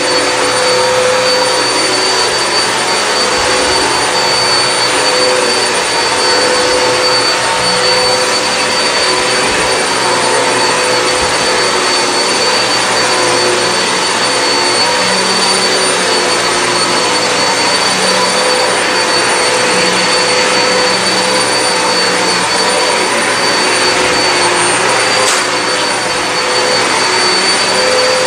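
Hoover WindTunnel High Capacity upright vacuum cleaner running steadily on carpet, a continuous motor whine and airflow hiss as it is pushed over the pile. There is a brief click about 25 seconds in.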